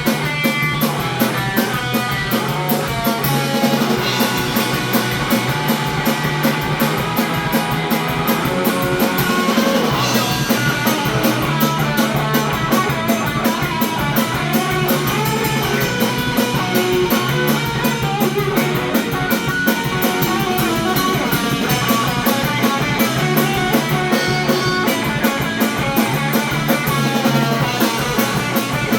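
Live surf-punk rock band playing an instrumental passage: loud electric guitars over a driving drum kit, with no vocals.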